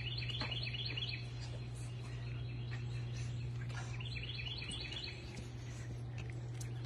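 A songbird calling twice, each time a quick run of high chirps lasting about a second, once near the start and again about four seconds in, over a steady low hum.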